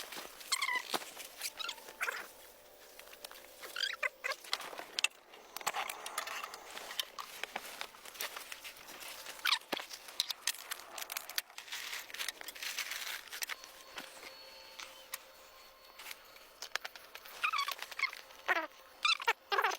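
Short whining animal calls that slide down in pitch, heard several times, the longest near the end, over light patter and scattered clicks.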